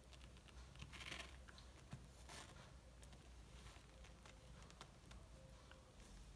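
Near silence with faint rustling and small scuffing clicks, a little stronger about a second in and again about two and a half seconds in.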